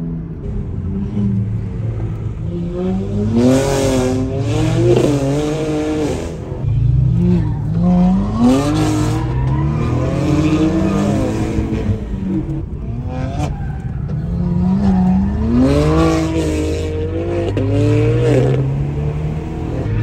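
BMW G80 M3's twin-turbo straight-six revving hard, its pitch climbing and falling again and again as it is driven sideways through mountain bends, with bursts of tyre squeal as the rear tyres spin.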